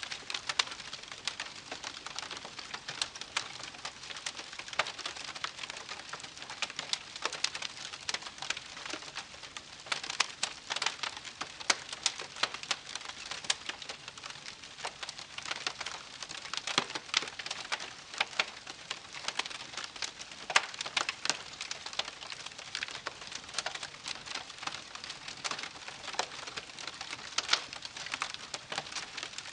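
Wood campfire crackling: a dense, irregular run of small pops and snaps over a soft hiss, with a few sharper louder snaps scattered throughout.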